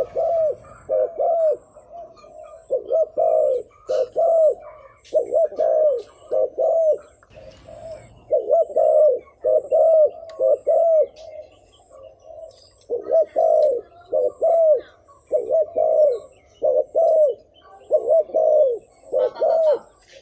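Spotted dove cooing: a fast run of short, arching coo notes, about two to three a second, broken by a pause of about a second and a half midway through.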